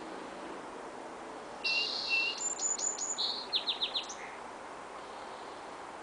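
A bird sings one song phrase of about two and a half seconds, starting about one and a half seconds in. It opens with a dense high trill, then a run of quick high notes and four fast falling notes, and ends on a lower note. A steady background hiss runs underneath.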